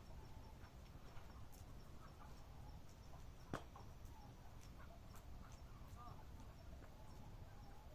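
Faint campfire crackling: scattered small pops with one sharper pop about three and a half seconds in, over a low steady rumble.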